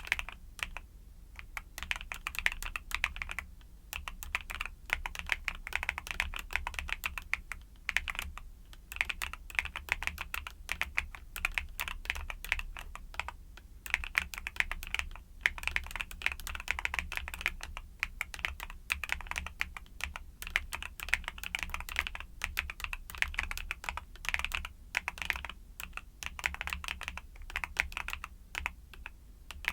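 Typing on a YUNZII mechanical keyboard with Cocoa Cream switches: fast runs of keystroke clacks, broken by short pauses every few seconds.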